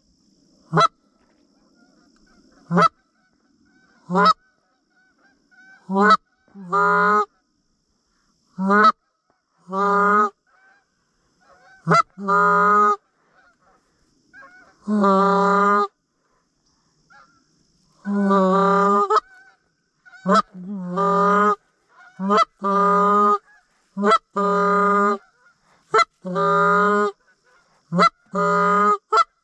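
A goose call blown in a series of loud, separate honks, some short and clipped and some drawn out for about a second, many opening with a quick upward break in pitch, calling to Canada geese.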